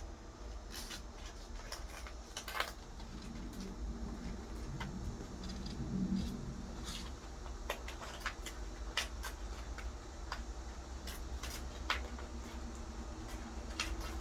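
A parrot chewing and shredding a cheap toy: irregular sharp clicks and cracks, a few every second, over a steady low hum.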